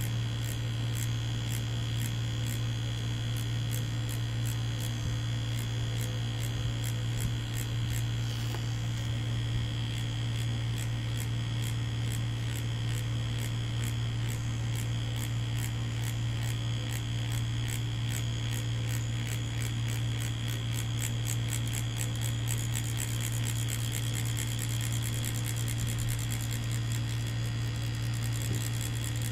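Mummy Anubis rotary tattoo machine running steadily with a low buzz, its needle working ink into fake practice skin; faint clicks come faster over the last few seconds.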